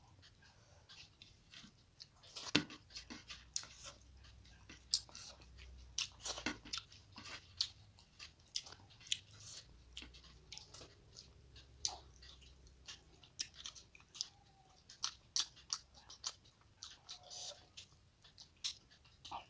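Close-miked eating sounds of a person chewing rice and fried fish eaten by hand: moist chewing and lip smacks, with many irregular sharp clicks.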